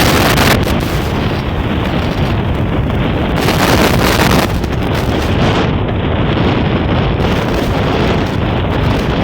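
Steady, loud wind rush on the microphone of a moving Honda SP125 motorcycle, mixed with its riding noise, with harsher gusts now and then.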